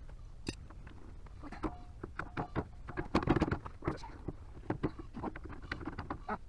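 Irregular clicks, knocks and clatter from hand work on a tractor wheel, with a denser, louder run of knocks about three seconds in.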